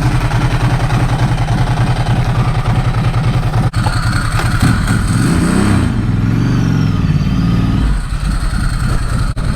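2009 Ducati Hypermotard 1100S's air-cooled L-twin engine with dual exhaust, running with an even beat, then revving and pulling away about five seconds in, its pitch rising and falling.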